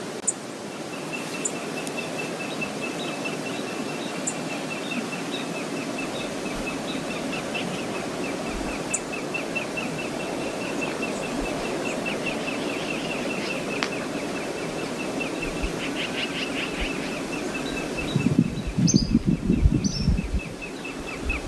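Steady rushing of Brooks Falls on the river, with a rapid, even series of high chirps above it from about a second in. About three seconds before the end, strong wind buffets the microphone in loud, rumbling gusts.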